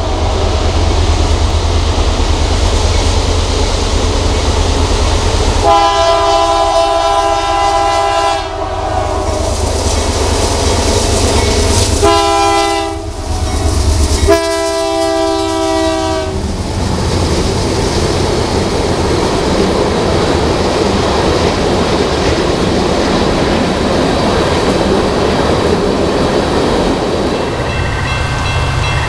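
Freight train's diesel locomotives approaching and passing over a heavy engine rumble, the lead unit blowing its multi-note air horn: a long blast about six seconds in, a short one about twelve seconds in and another long one about fourteen seconds in. After the locomotives pass, the tank cars roll by with a steady rumble and wheel clatter.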